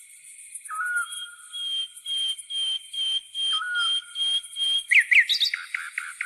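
Wild birds whistling: a run of short, evenly spaced high notes, about two a second, over a lower drawn-out whistle that recurs, then a quick flurry of rising and falling notes about five seconds in, the loudest part. A grasshopper's high, pulsing chirring goes on underneath.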